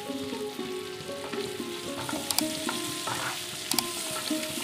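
Vegetable chunks sizzling as they shallow-fry in oil and butter in a nonstick wok over a high flame, stirred with a wooden spatula that clicks against the pan a couple of times. A soft background melody plays over the frying.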